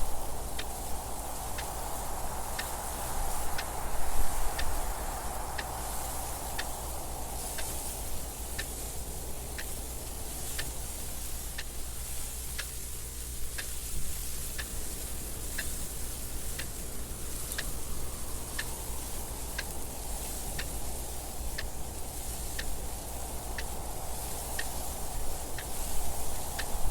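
A clock ticking steadily at an even pace, over wind noise that swells and fades in slow gusts, with a steady low rumble beneath.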